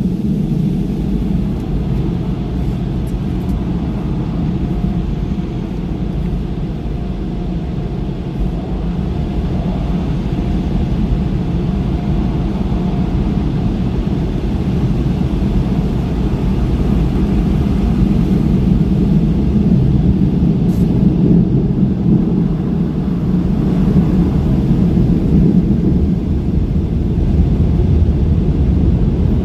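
Automatic car wash dryer blowers running, a loud, steady rush of air against the car heard from inside the cabin, growing a little louder in the second half.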